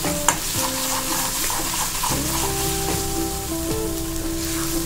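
Thick ginger thokku sizzling in oil in a metal kadai while a spoon stirs it, with one sharp tap about a third of a second in; the oil has begun to separate out, the sign that the thokku is nearly done. Soft background music with held notes plays over it.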